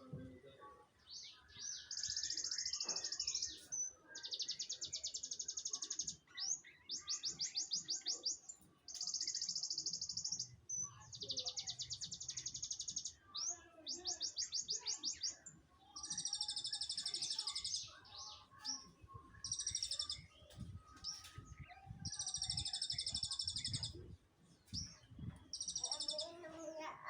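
White-headed munia (emprit kaji) twittering in a run of high, buzzy trills, each a second or two of quick notes, repeated with short pauses.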